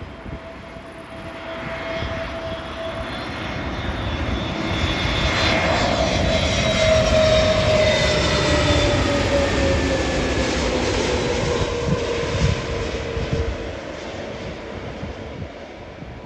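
Airbus A320neo jet airliner with CFM LEAP-1A engines passing by on its landing: the engine noise swells to a peak about halfway through and then fades, its whine sliding steadily lower in pitch as it goes by.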